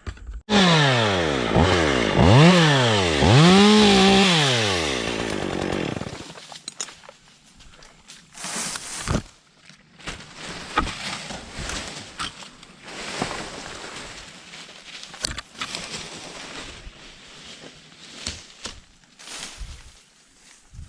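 Stihl MS 201-series two-stroke top-handle chainsaw revving in about four short rises and falls of pitch, then cutting out about six seconds in. Scattered clicks and rustles follow.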